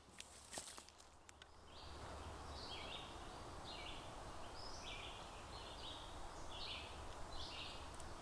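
Faint outdoor ambience: a bird chirping over and over, about twice a second, over a steady hiss that sets in about two seconds in, with a few light clicks near the start.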